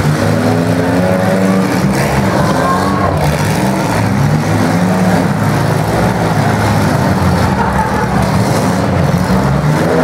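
Several demolition derby cars' engines running and revving together, loud and steady, with the pitch rising and falling as they push against each other.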